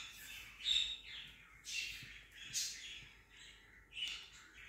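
A bird calling, short high chirps repeated about once a second.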